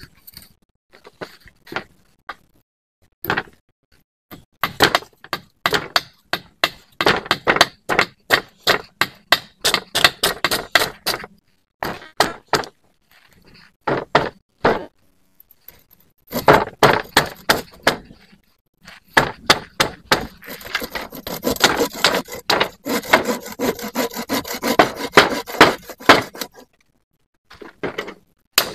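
Repeated sharp whacks on wood, several strokes a second, in runs broken by short pauses. The strokes come thickest near the end.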